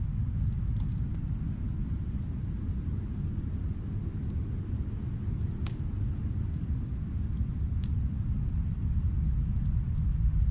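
Fireplace crackling: a handful of sharp, scattered pops over a steady low rumble.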